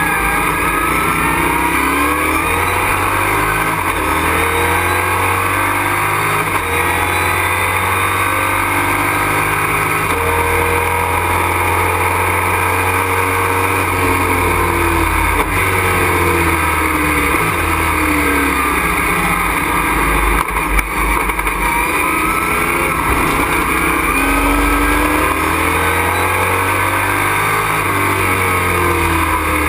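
Race truck engine under hard racing load, heard from inside the cockpit, its pitch climbing and falling again and again over a steady rush of noise.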